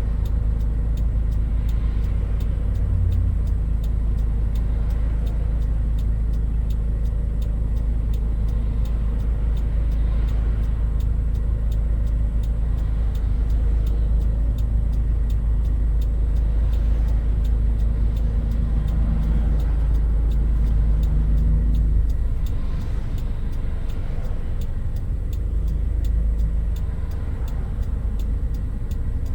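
Toyota Hilux Mighty-X pickup driving along, its engine and road noise making a steady deep rumble. The lowest rumble eases about two-thirds of the way through, and a faint engine hum comes forward.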